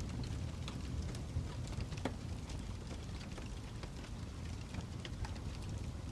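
Fire crackling: a steady low rumble of burning with scattered sharp pops and snaps, one louder pop about two seconds in.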